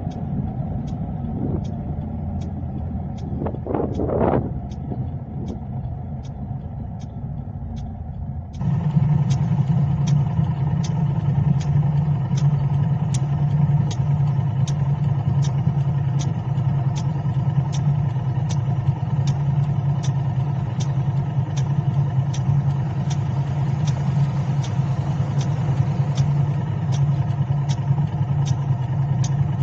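Car driving noise with a steady tick about twice a second. About nine seconds in, a louder low hum and broader noise start abruptly and continue.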